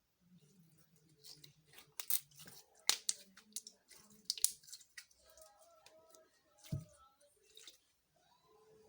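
Slime being squished and pulled by hand, giving irregular sticky clicks and crackling pops, a few of them sharp and loud.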